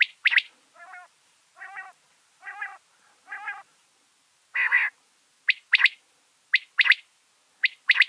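A bird calling in separate, sharp, harsh notes: a quick pair at the start, then four short buzzy, rattling calls, one longer harsh call about halfway, and three quick pairs of sharp notes near the end.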